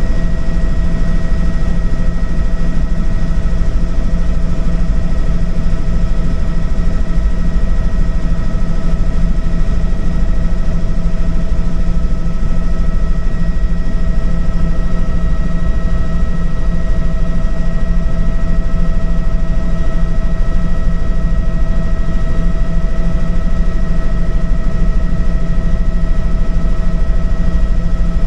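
Helicopter in flight: a steady drone of engine and rotor, with a low rumble under several held whining tones that do not change.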